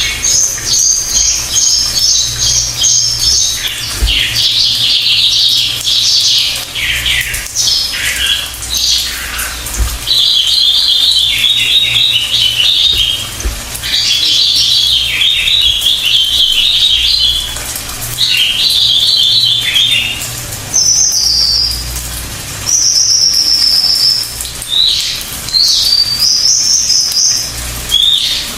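Cililin bird singing: a run of rapid, chattering trilled phrases, each a second or two long with short pauses between, giving way in the last third to shorter, clear high whistled notes.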